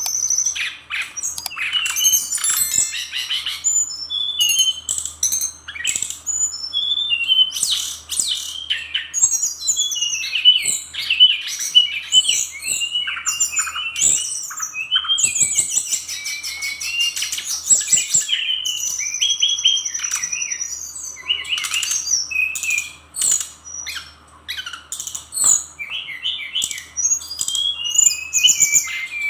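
Fulvous-chested jungle flycatcher singing a long, rapid run of varied chattering and whistled notes, with a held high whistle about twenty seconds in.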